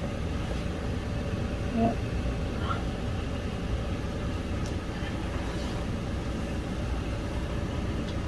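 A steady low mechanical hum, like a motor or air conditioner running, with a few faint ticks from handling.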